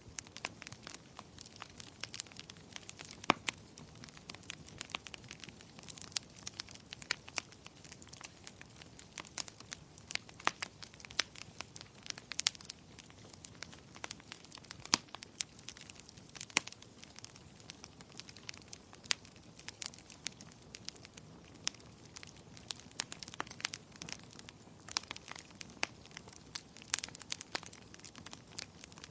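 Wood fire burning in a fireplace: a low steady hiss with frequent sharp, irregular crackles and pops.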